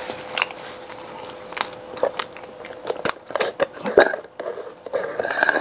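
Close-miked eating: chewing and biting with many short, sharp wet mouth clicks and a few crunches. A faint steady hum runs under it for roughly the first half.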